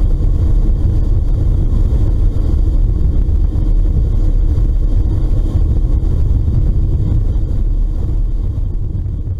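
Steady low rumble of wind on the microphone over the drone of a ferry under way.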